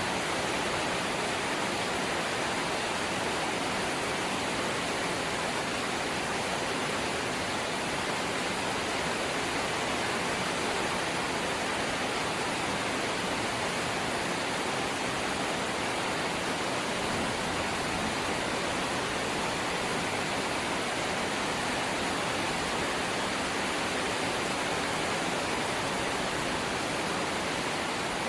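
Steady light rain, an even hiss with no separate drops or gusts standing out.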